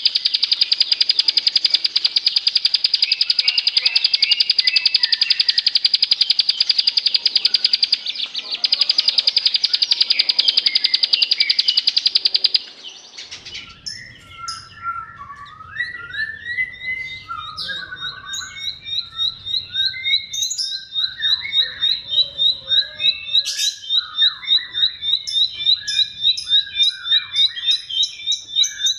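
Bar-winged prinia (ciblek) song. A loud, rapid, buzzy high trill runs for about twelve seconds, then changes abruptly to varied chirps and a fast run of repeated high notes.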